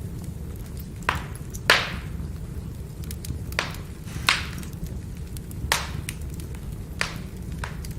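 Firewood burning: a steady low rush from the fire, with about seven sharp crackles and pops from the burning logs, the loudest a little under two seconds in.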